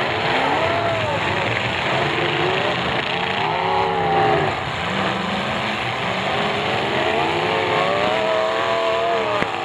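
Demolition derby cars' engines revving, their pitch rising and falling repeatedly over a steady loud din, with a single sharp bang near the end.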